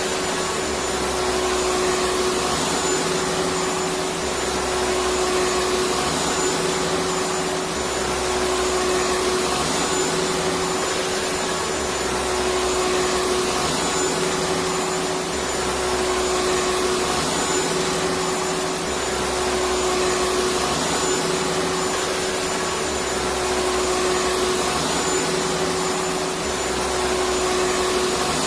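Electric vacuum cleaner running steadily: a constant motor hum and whine under dense airflow hiss, with a faint low pulse that recurs about every two seconds.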